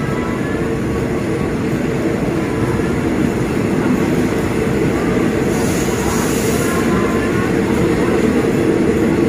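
Passenger train pulling out of the station, heard from a carriage window: a steady rumble of the moving train that grows slowly louder as it gathers speed, with a brief hiss about six seconds in.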